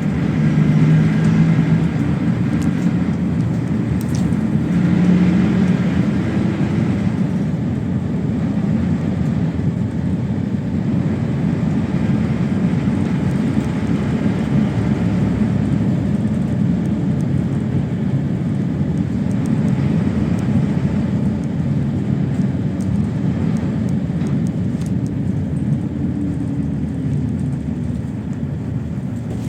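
PAZ-32054 bus's V8 petrol engine running under way, heard from inside the bus: a steady low drone whose pitch rises and falls a few times in the first seven seconds or so as the engine revs.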